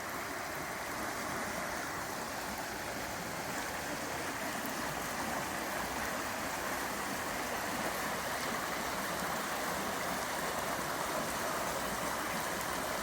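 River water flowing, a steady rush.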